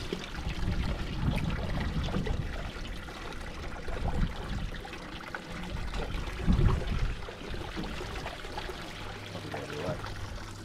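Water lapping and trickling against a small boat's hull, with uneven low rumbling swells; a low steady hum comes in near the end.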